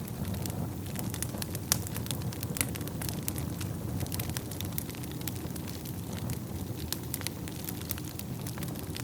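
Wood fire burning in a fireplace: a steady low rumble of flames with frequent irregular crackles and pops, one sharper pop a little under two seconds in.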